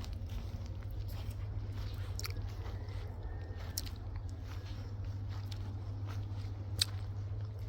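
Someone chewing wild grapes close to the microphone, with scattered sharp clicks, one sharper near the end, over a steady low hum.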